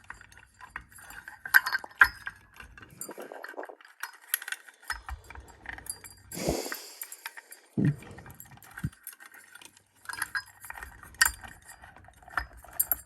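Small metal parts clinking and rattling in irregular clicks as ceiling-fan hardware and screws are handled during fitting, with a brief rustle about halfway through.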